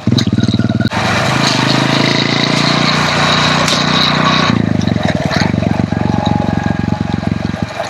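Hero Honda CD100 motorcycle's single-cylinder four-stroke engine running on the move. A louder rushing noise lies over it from about one second in to about four and a half seconds in.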